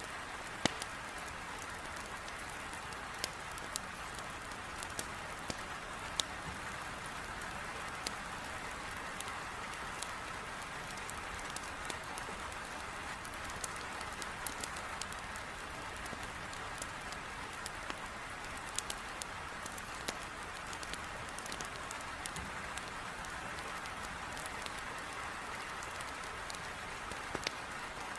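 Heavy rain beating on a window pane, a steady even hiss, with a wood fire in a fireplace crackling in scattered, irregular sharp pops.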